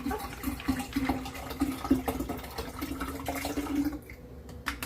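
Tap water running, filling a container for orange juice made from frozen concentrate, then shut off about four seconds in.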